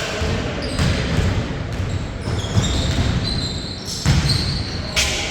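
A basketball bouncing on a court floor with several sharp knocks, along with short high squeaks of sneakers on the floor.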